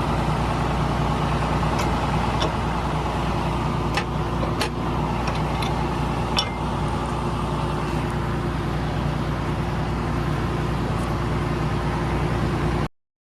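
A vehicle engine running steadily at a constant speed, with a few light clicks and knocks in the middle. The sound cuts off abruptly near the end.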